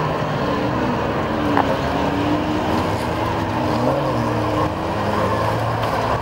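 Engines of several demolition derby cars running and revving together on the track, a continuous mix of engine noise whose pitch rises and falls.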